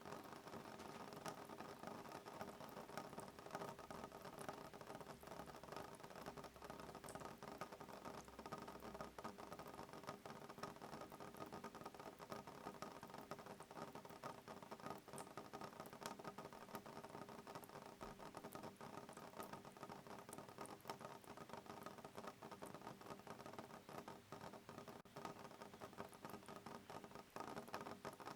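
Soft rain pattering on a window pane: a steady, faint mass of fine drop taps with no thunder.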